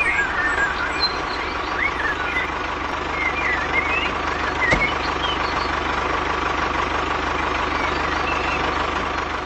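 A vehicle engine runs steadily with a fast even pulse and a steady whine. Birds chirp in the first half, and there is a single sharp click about halfway through.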